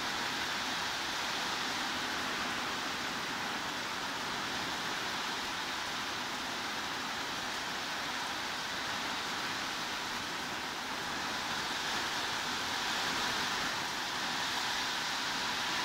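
Steady heavy rain falling, an even hiss with no separate drops standing out, getting slightly louder about three-quarters of the way through.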